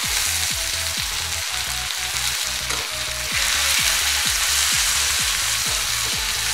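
Freshly added chopped tomatoes and onions sizzling in hot oil in a kadhai, stirred and scraped with a metal slotted spoon, frying until the tomatoes soften. The sizzle grows louder about three seconds in.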